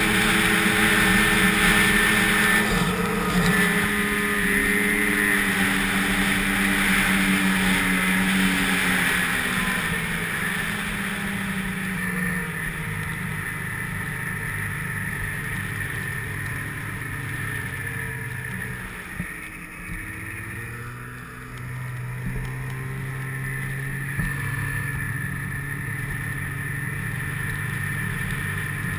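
Snowmobile engine running under way. Its pitch and loudness ease down about ten seconds in, dip briefly near twenty seconds, then pick up again and hold steady.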